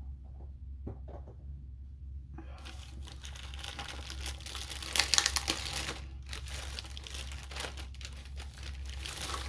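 Diamond-painting kit packaging crinkling and rustling as it is unwrapped and handled. A few light clicks come first, then steady crackling from about two and a half seconds in, loudest near the middle.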